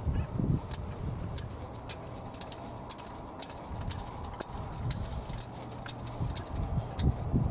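Steady, even ticking at about two ticks a second, over low knocks and rumbles of handling.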